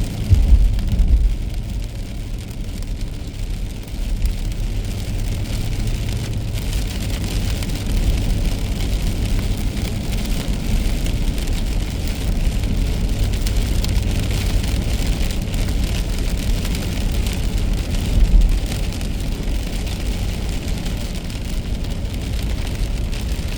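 A car driving in the rain: a steady low rumble of tyres on wet road with a hiss of rain, and brief louder rumbles about half a second in and again around eighteen seconds.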